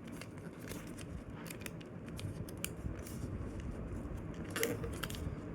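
A sheet of folding paper being squash-folded and creased by hand: soft, irregular crinkles and crackles of paper.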